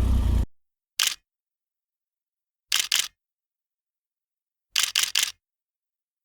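A motorcycle engine running cuts off abruptly about half a second in. Then come camera shutter clicks in dead silence: one about a second in, a pair near three seconds, and three in quick succession near five seconds.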